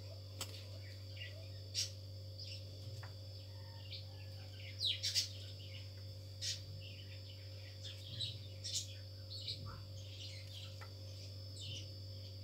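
Faint, scattered bird chirps, short and sharply falling, coming every second or so, over a steady low hum.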